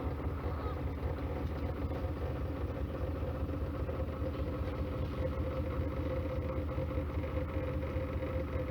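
Narrowboat engine running steadily: an even low drone with a constant mid-pitched tone.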